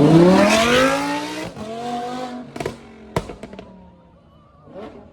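A car engine revving hard, its pitch climbing steeply for about a second and a half before it drops off to a lower note. A few sharp cracks follow about halfway through, and the sound then fades.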